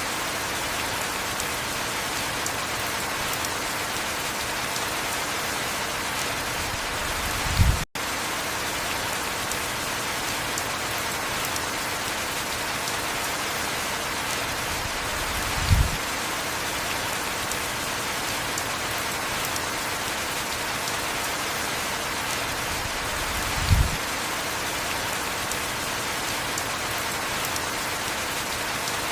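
Heavy rain falling steadily, a dense even hiss. A brief low thump comes about every eight seconds, three times, and the sound cuts out for an instant about eight seconds in.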